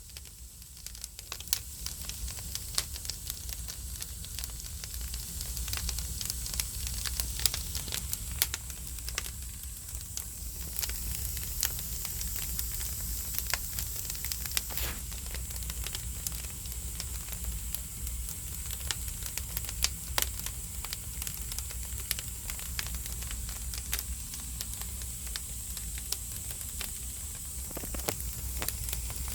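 Firewood burning in an agungi, a Korean wood-fired ondol firebox: irregular crackling and sharp pops over a steady hiss and a low rumble. It grows louder over the first few seconds, then keeps on steadily.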